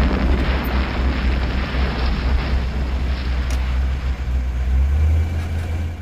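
Deep, continuous rumble under a rushing roar, swelling a little about five seconds in: the ground rumbling as an earthquake shakes a road.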